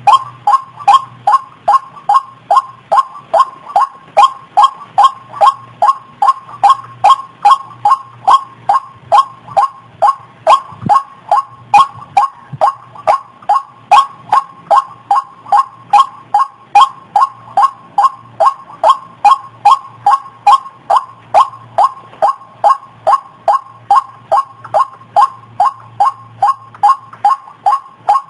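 White-breasted waterhen (ruak-ruak) calling: a monotonous series of short, loud falling notes, about two or three a second, repeated without a break.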